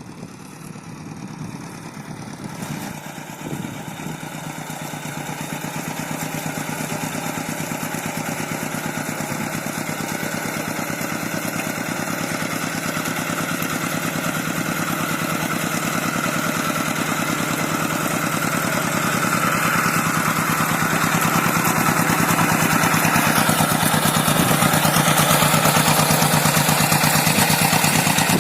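Paddy-field tractor engine running steadily with rapid, even firing, growing gradually louder.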